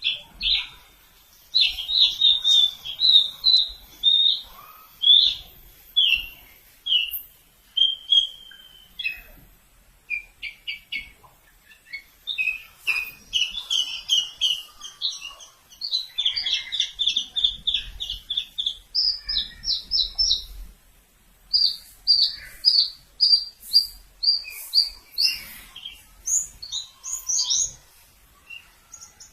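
Javan bush lark singing a long, varied song of rapid repeated chirps, the phrases changing pitch and pattern every second or two and climbing higher near the end.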